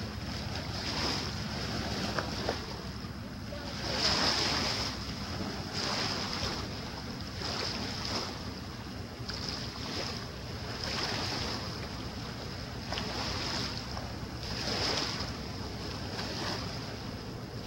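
Water splashing and sloshing in repeated surges about every one and a half to two seconds, over steady wind rumble on the microphone.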